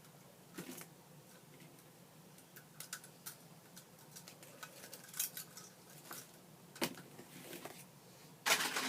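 Scattered light clicks and small plastic rattles of a toy tractor being worked free of its packaging's twist ties, with a louder burst of handling noise near the end.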